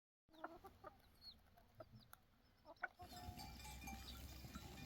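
Faint clucking of farmyard fowl with a few short, high chirps. A louder, fuller outdoor background comes in about three seconds in.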